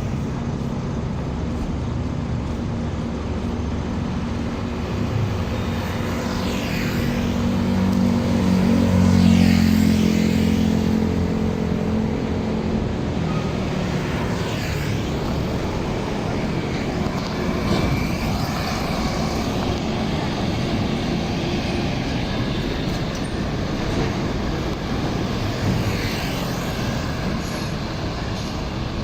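Road traffic noise with heavy trucks passing. One truck's engine drone swells and passes about nine to ten seconds in, then fades.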